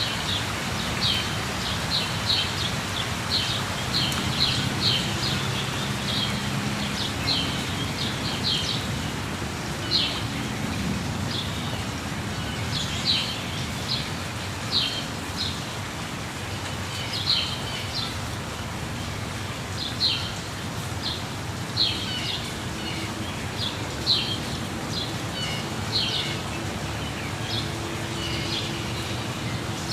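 Steady rush of falling water from a waterfall, with birds chirping over it in short, high, repeated calls.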